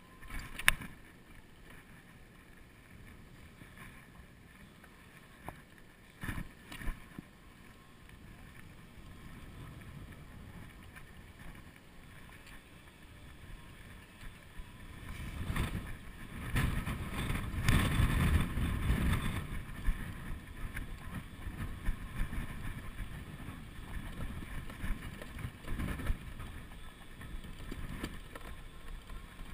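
Wind buffeting the microphone of a chest-mounted action camera on a moving electric bicycle. It swells into heavy gusts about halfway through. A few sharp knocks come in the first several seconds.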